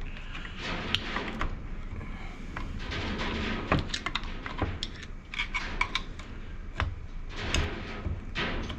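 Irregular clinks and knocks of steel transmission parts being handled as a ball bearing is worked off a Tofaş gearbox shaft, with a few short metallic rings about halfway through.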